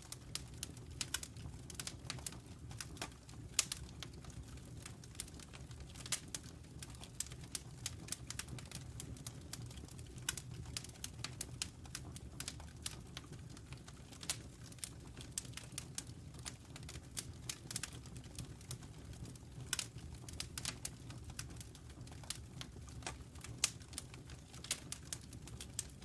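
Burning logs in a fireplace crackling: irregular sharp pops and snaps, several a second, over a low steady rumble.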